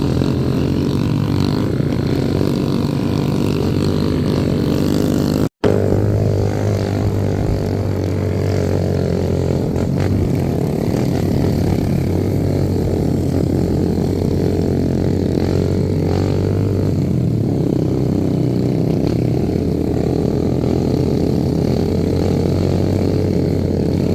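Motorcycle taxi engine running steadily while under way, with a brief break about five and a half seconds in.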